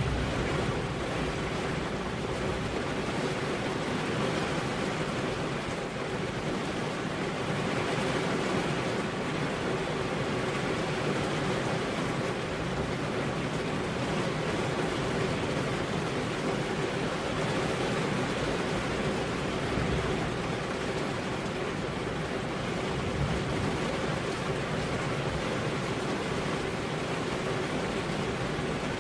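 Rain falling steadily, an even continuous hiss with no thunderclap or other sudden sound.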